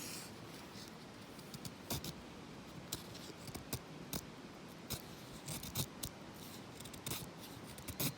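Knife blade shaving thin curls off a stick of firewood to make a feather stick: short, irregular cutting scrapes, several a second.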